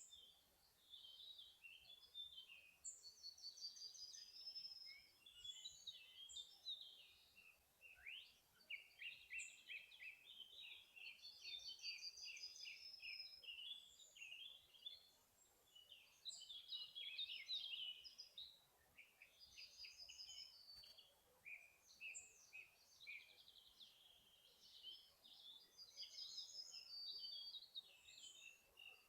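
Several forest songbirds singing at once, faint: overlapping quick chirps, rapid trills and short high whistled phrases, one after another without a break.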